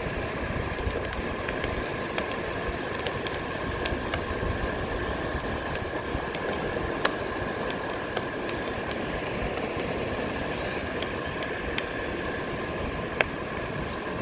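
A Onewheel electric board rolling along the beach: a steady motor hum and tyre noise mixed with wind and surf, with a few sharp crunches of shells under the tyre, the loudest about thirteen seconds in.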